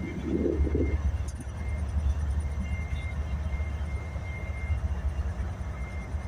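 BNSF freight train rolling past, a steady low rumble from its diesel locomotive consist and cars.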